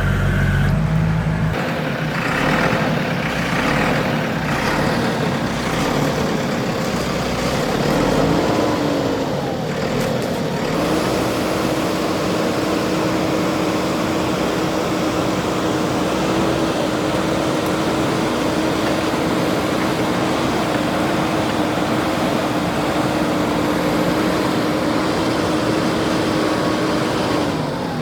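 Backhoe loader's diesel engine running steadily, with a brief change in pitch about a third of the way in and a steady drone through the second half.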